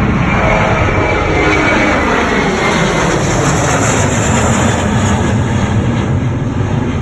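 Jet airliner taking off and passing by, with loud, steady engine noise and whining tones that slide slowly down in pitch as it goes.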